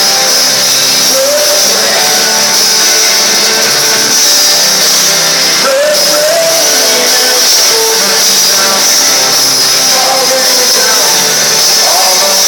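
Live rock band playing with a male lead singer, recorded from the audience loud and distorted.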